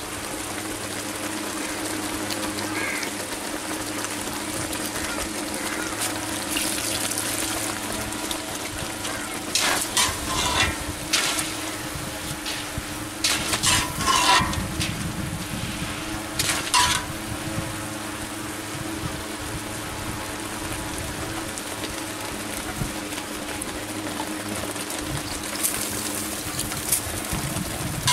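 Boondi of gram-flour batter frying in a wide kadai of hot oil: a steady sizzle. Several sharp metal knocks and scrapes from the perforated ladle against the pan come between about a third and two thirds of the way through.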